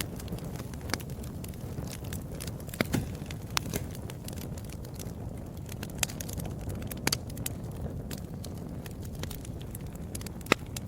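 Wood fire burning in a fireplace, with a steady low rumble and irregular crackles and pops, a few sharper pops standing out.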